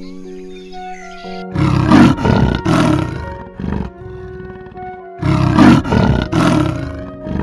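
Leopard calling: two bouts of rough, rasping grunts, each a quick series of several strokes, over background music.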